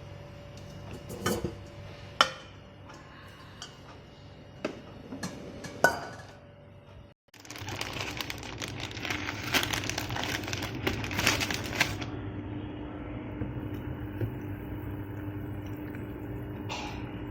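Dishes and utensils clinking a few times in a kitchen. After a brief cut comes a dense crackling noise for several seconds, which settles into a steady hum.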